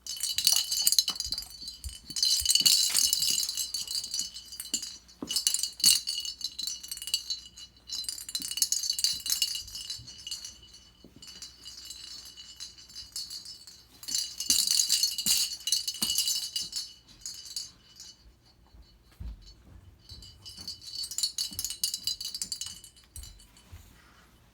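A bell inside a pet bird's toy ball jingling in repeated bursts of a few seconds as the bird plays with the ball, with quieter gaps between them.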